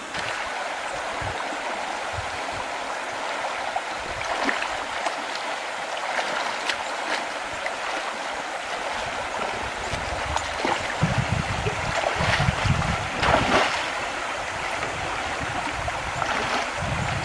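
Water rushing steadily, as of a stream or river current, with a few short splashes or knocks. Uneven low rumbles come in from about ten seconds in.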